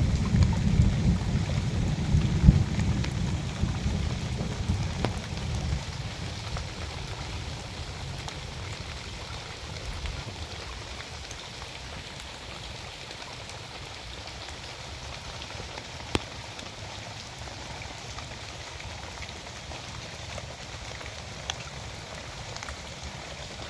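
Heavy rain falling on orchard trees and ground, a steady hiss of drops with a few sharp single drop taps. A low rumble in the first few seconds fades away, and the rain slowly eases.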